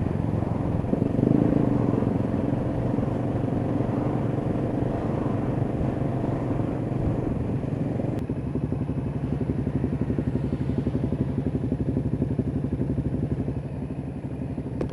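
Kawasaki EN500 Vulcan's parallel-twin engine running under way. About eight seconds in it settles to a lower, steadier pulse.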